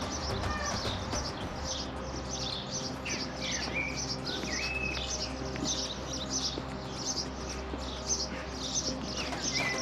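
Birds chirping: many short, high chirps repeating quickly, with a few whistled, gliding notes in between, over a steady low hum.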